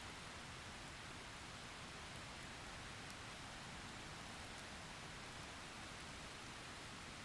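Steady rain, a faint even hiss with an occasional sharper drop tick.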